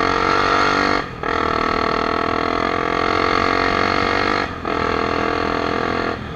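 Honda CBX 250 Twister's single-cylinder engine with a straight-pipe exhaust, accelerating hard through the gears. The engine note cuts out briefly twice, about a second in and again about four and a half seconds in, as it shifts up.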